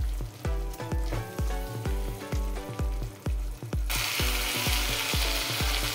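Background music with a steady beat. About four seconds in, a loud frying sizzle comes in from the onion-tomato masala cooking in butter in the pan.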